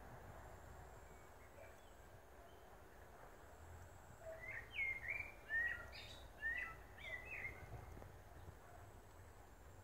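A small bird singing: a quick run of short, sharply slurred chirping notes lasting about four seconds, starting near the middle, over faint steady background noise.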